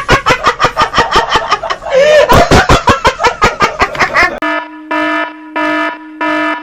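Cartoon sound effects: a fast run of clucking-like squawks, about five beats a second, then from about four seconds in a horn honking in short, evenly spaced beeps.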